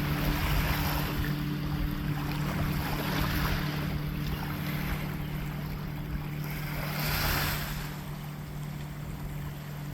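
Waves washing ashore, the surf swelling and fading several times, loudest a little past the middle, over a steady low hum.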